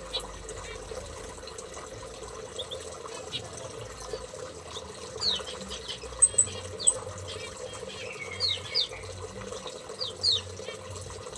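Small aviary birds giving short, high, falling chirps, more of them in the second half, over a steady sound of running water with a low hum.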